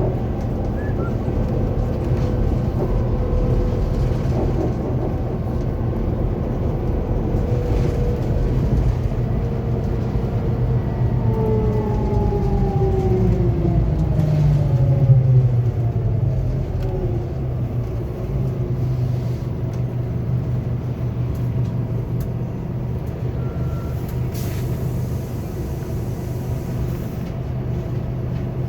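Scania K280UB bus's five-cylinder diesel engine and driveline running. Around the middle several whining tones fall in pitch together as the bus slows, and it then settles into a steady low drone.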